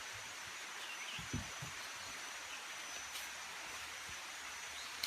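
Faint steady rush of the waterfall, with a thin, steady high-pitched tone over it and a couple of soft low knocks about a second in.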